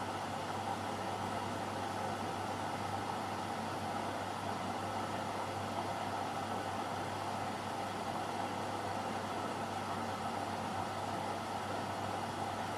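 AEG Lavamat Turbo washer-dryer running steadily through a wash cycle, a constant motor hum with a noise band above it.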